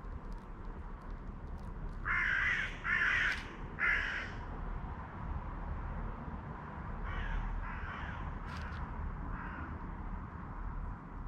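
A crow cawing: three loud, harsh caws in quick succession about two seconds in, then three or four fainter caws later on.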